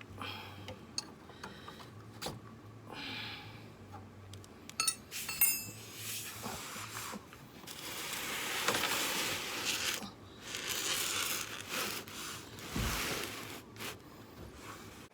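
Wrenches and a drain plug clinking and scraping on metal while the oil cooler line is drained, with a stretch of steady rushing noise starting about six seconds in and lasting several seconds.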